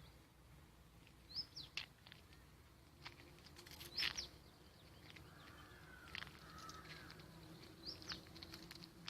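Birds chirping: a few short, high, upward-sweeping chirps scattered through, over a faint steady low hum.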